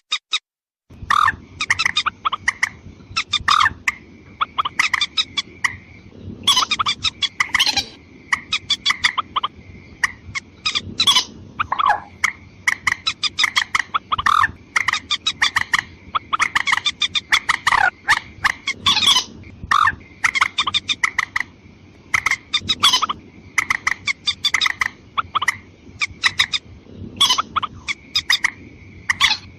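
Lure recording of rail (mandar) calls: loud, rapid series of short clucking and chattering notes, repeated in bursts with brief pauses, over a low background hiss.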